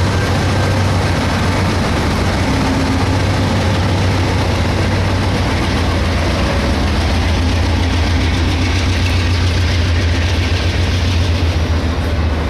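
Norfolk Southern train passing close by: a steady, loud rumble of diesel locomotive engines and rolling railcars.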